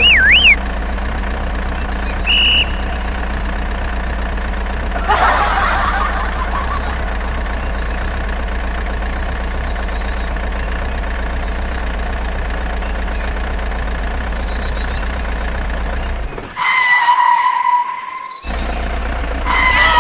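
Engine running with a steady hum, with short bird chirps scattered over it. About sixteen seconds in, the hum cuts out for about two seconds while a steady two-tone sound is held.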